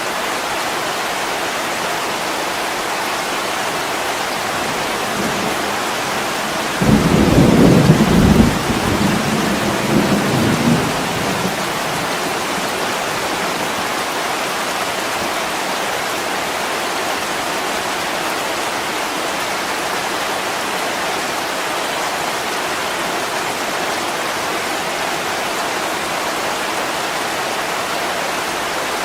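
Heavy rain pouring steadily on a window, with a roll of thunder that starts suddenly about seven seconds in and rumbles for about four seconds before dying away.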